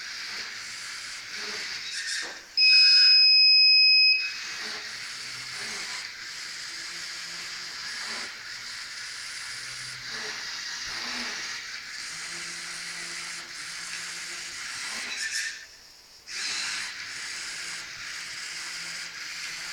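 An electronic buzzer beeps once, a loud steady tone lasting about a second and a half, plausibly the Firebird V robot's onboard buzzer. Under it runs a steady hiss, with a faint low hum that comes and goes.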